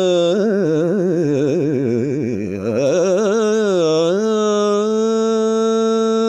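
A single voice singing the drawn-out final syllable of a Hindi Krishna bhajan. It moves through a fast, wavering ornamented run that dips low and climbs back, then settles into one long steady held note.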